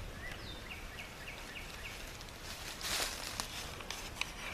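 Outdoor ambience with a bird chirping a quick run of about six short, high notes near the start, and a brief rush of noise about three seconds in.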